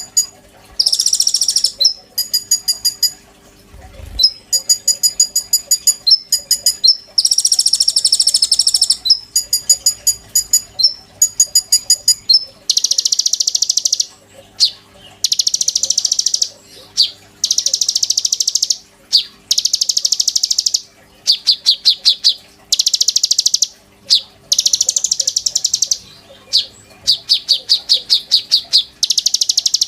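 A konin songbird singing loudly and continuously. Fast trills of repeated high notes alternate with buzzy high chatters about a second long, with short gaps between phrases, over a faint steady hum.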